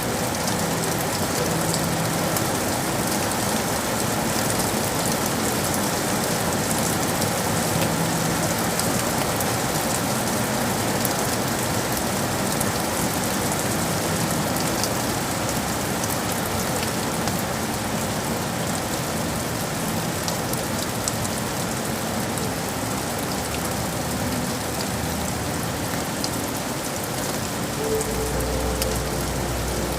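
Steady rain falling on city surfaces, an even, dense hiss. A low rumble joins near the end.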